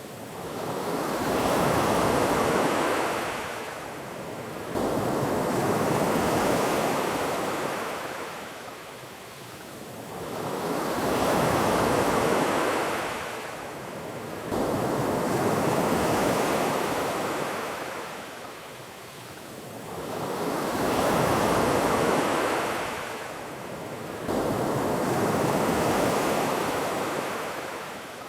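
Ocean waves washing onto a beach in slow surges, each rising and falling away over about four to six seconds, six times in all.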